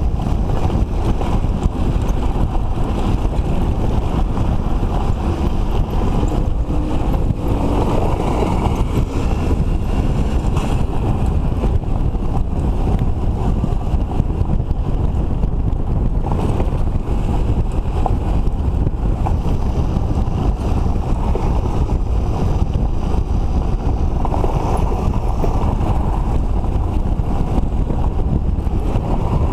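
Steady wind rumble on the microphone of a two-stroke motorcycle at riding speed, with the engine running underneath.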